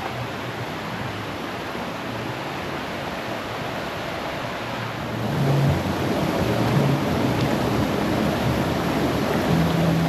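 Running water rushing steadily as one even noise, growing louder about halfway through.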